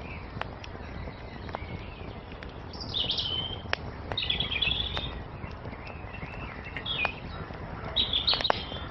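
Birds singing in short, high chirping phrases, about five of them, over a wood fire's scattered sharp crackles and pops and a low steady rush.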